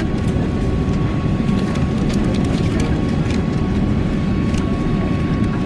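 Steady low rumble of airliner cabin noise from the engines and air system, with a thin steady whine above it and a few faint ticks.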